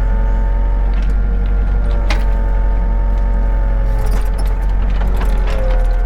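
Excavator's diesel engine and hydraulics running under load, a steady whine that dips in pitch near the end, with several sharp knocks and clunks as the grapple works the logs.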